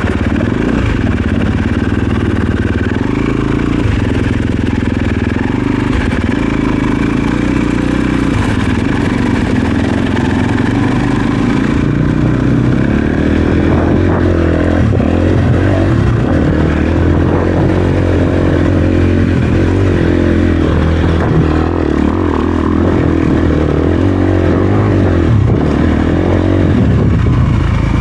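Dirt bike engine running under way, its pitch stepping up and down with the throttle.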